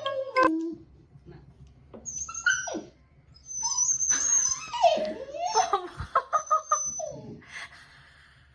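A dog whining and whimpering in a string of high, sliding cries that come in several spells over a few seconds.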